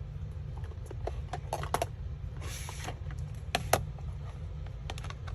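Scattered small taps and clicks of craft supplies being picked up and set down on a work table, with a brief rustle of paper about two and a half seconds in, over a steady low hum.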